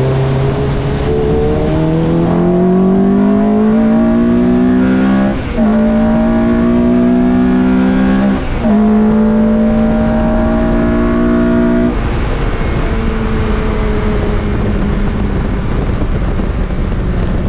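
Lotus Elise race car's engine heard from inside the cockpit, accelerating hard out of a slow corner with its pitch climbing steadily. There are two quick upshifts, about five and a half and eight and a half seconds in. About twelve seconds in the throttle is lifted and the engine note drops to a lower, quieter sound under wind and road noise.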